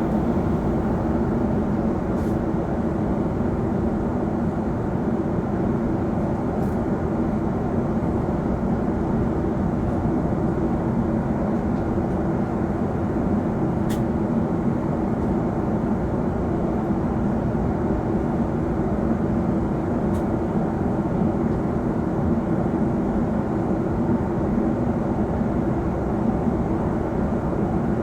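Jet airliner cabin noise inside a Boeing 777-300: a steady roar of engines and airflow with a low drone underneath.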